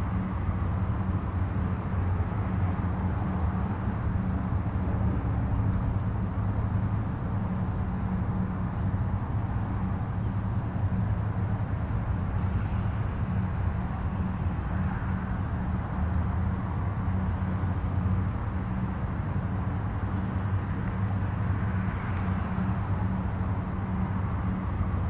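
Distant highway traffic: a steady low rumble of tyres and engines, with a few vehicles swelling and fading as they pass.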